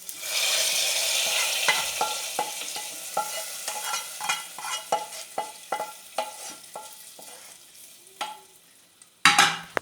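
Hot tempering oil with fried shallots and curry leaves poured into chicken curry. It sizzles loudly at once, and the sizzle dies away over several seconds while a spoon taps and scrapes as it is emptied and stirred in. There is a brief loud noise near the end.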